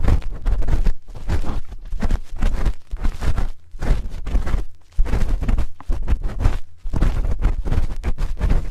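A spoon scraping and rubbing close against a microphone's ear in quick, irregular strokes, with a deep rumble from the contact.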